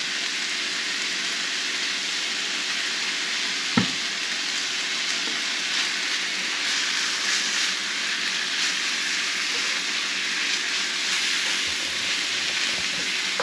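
Ground meat sizzling as it fries in a pan, stirred and turned with a wooden spatula. A single sharp knock comes about four seconds in.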